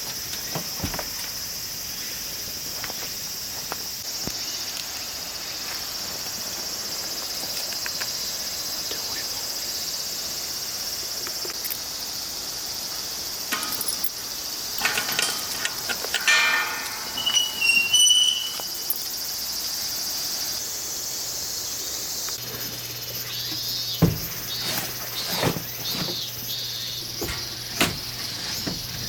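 A steady high insect chorus of summer insects. Short knocks and rustling handling sounds break in now and then, loudest in a cluster about halfway through and in a sharp knock later on.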